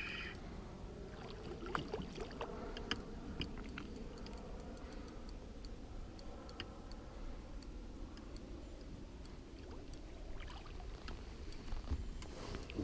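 Steady low rumble of a boat on the river, with scattered small clicks and taps of fishing gear being handled.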